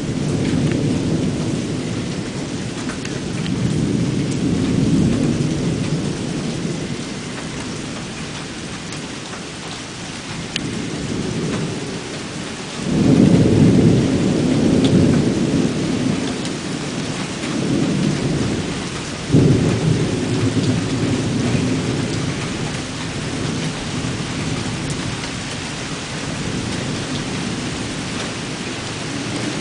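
Thunder rumbling almost without pause over steady rain. A sudden louder crack of thunder comes about thirteen seconds in and another about nineteen seconds in, each rolling off over several seconds.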